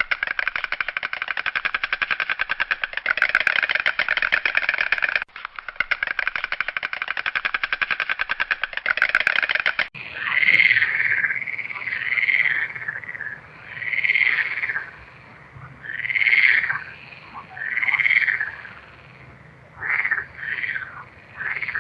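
Animal calls: a fast pulsing trill with a brief break about five seconds in, stopping about ten seconds in. It is followed by separate calls about every two seconds, which become shorter and quicker near the end.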